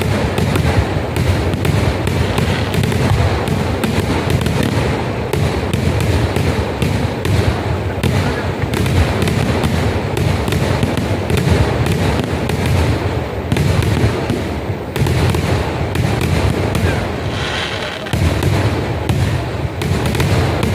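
Festival fireworks barrage: a dense, unbroken rattle of rapid bangs and crackles, loud throughout, easing slightly twice in the second half.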